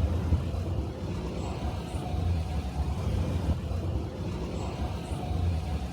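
Steady city street ambience dominated by the low rumble of passing road traffic.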